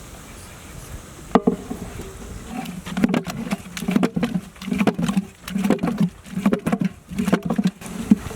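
Thick haleem being beaten and stirred in a large cooking pot: one sharp knock about a second in, then a steady run of heavy, wet slapping strokes about twice a second.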